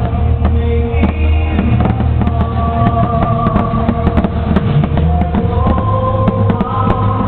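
Fireworks display: many sharp firework pops and crackles going off throughout, over loud music with held melody notes and a steady bass.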